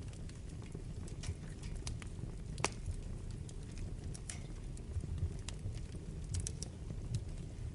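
Wood fire burning in a fireplace: a steady low rumble with irregular sharp crackles and pops, one louder pop about two and a half seconds in.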